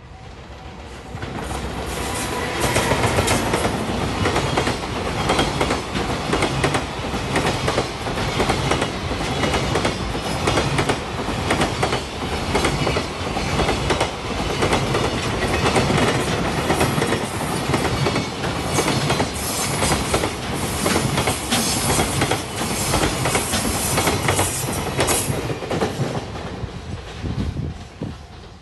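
Freight train, a JR Freight EF210 'Momotaro' electric locomotive hauling Koki 107 container wagons, passing by. The sound builds over the first couple of seconds as it arrives, then a steady clickety-clack of wheels over rail joints, fading near the end as the last wagons go.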